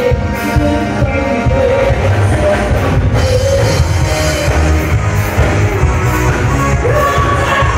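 Live rock band playing, with drum kit and singing, recorded loud and dense from the room.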